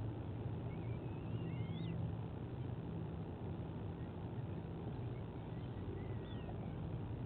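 Steady low rumble and hum of an outdoor nest-cam microphone, with two faint, thin bird calls rising in pitch, one between one and two seconds in and one about six seconds in.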